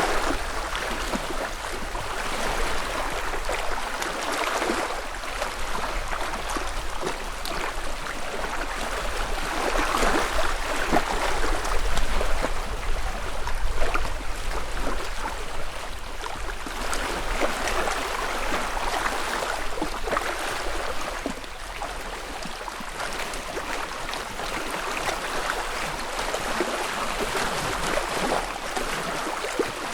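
Small lake ripples lapping and splashing at the shoreline, coming in gentle swells every few seconds, loudest about midway through.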